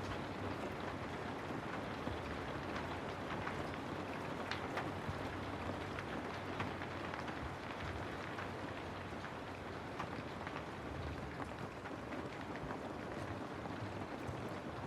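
Steady rain falling on a house: an even hiss with many individual drops ticking through it.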